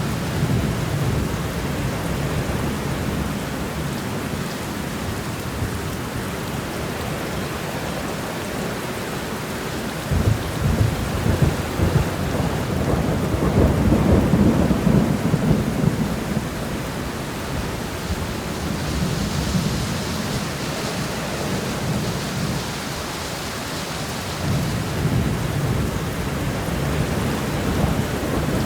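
Steady rain, with rolling thunder rumbling low underneath and swelling louder about ten seconds in and again near the end.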